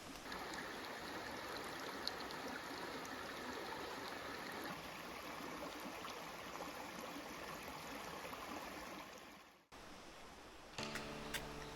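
Mountain stream flowing steadily, a continuous rush of water that fades out and cuts off about two seconds before the end. Music starts in the last second.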